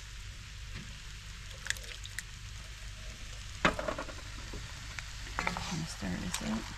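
Roux and chopped vegetables sizzling in a pot as they are stirred, with a utensil clicking and knocking against the pot several times. The loudest knock comes about halfway through.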